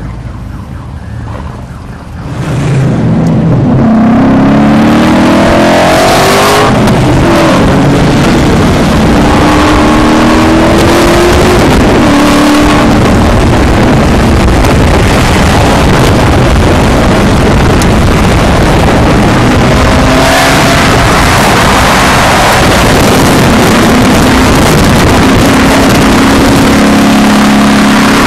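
V8 sports car engine at full throttle, its pitch climbing and dropping again through gear changes, under a loud rush of wind at highway speed. It jumps from quieter running to full loudness about two and a half seconds in.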